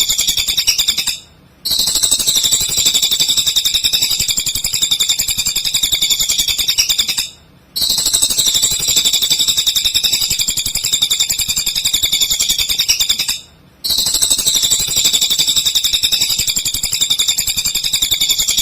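Cililin singing non-stop: a fast, dense, high-pitched chattering song, broken by three brief silent gaps about six seconds apart.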